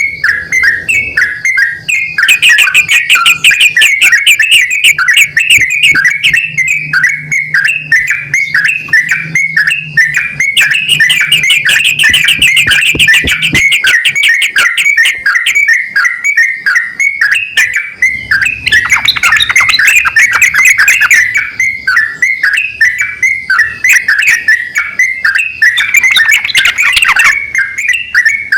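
Yellow-vented bulbuls, a male and a female, calling back and forth in a fast, unbroken run of chirping notes, with several stretches of rapid trilling.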